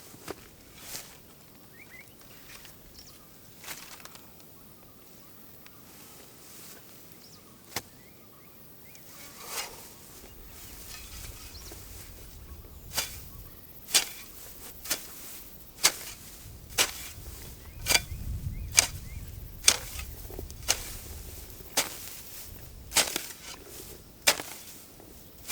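A hand tool striking hard over and over: a few scattered strikes at first, then a steady chopping rhythm of about one strike a second in the second half.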